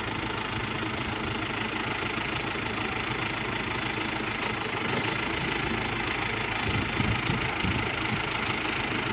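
Tractor's Quanchai turbocharged diesel engine running steadily at idle, with a few faint ticks around the middle.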